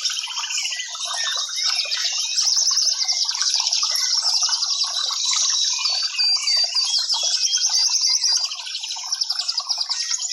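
Several birds chirping and trilling together in a dense chorus of fast, repeated high notes.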